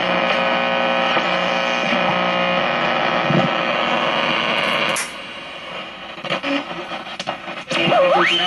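Hallicrafters S-40B tube shortwave receiver's speaker playing a steady, buzzy signal with a hum for about five seconds. Then it drops to quieter static with crackles, and a rising whistle near the end as the dial is tuned across the band.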